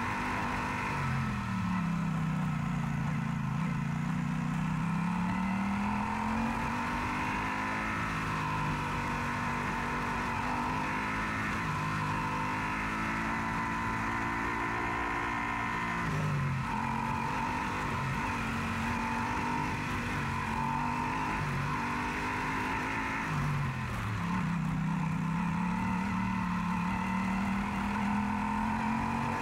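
Yamaha Super Ténéré parallel-twin motorcycle engine running under way. Its pitch sinks and climbs again several times as the rider changes speed, with sharp drops about a second in, about halfway through and near the end.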